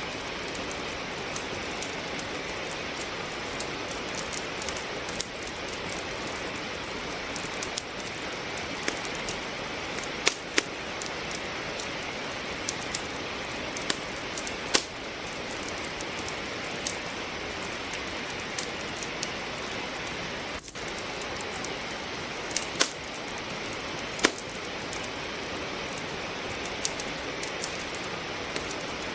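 Steady rain with the irregular sharp pops and crackles of a wood fire burning in a fireplace.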